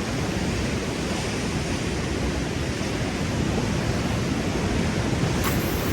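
Steady rush of sea water washing against shoreline rocks, with one brief click about five and a half seconds in.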